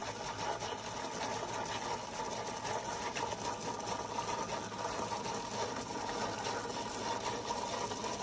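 Single-serve coffee maker running with a steady mechanical buzz and hum.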